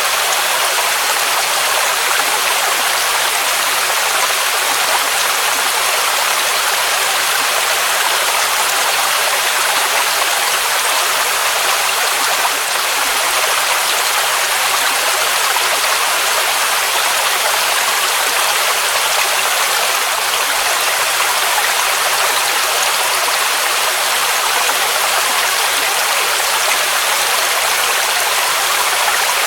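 Mountain waterfall rushing in a steady, unbroken roar of falling water, mostly bright hiss with little low rumble.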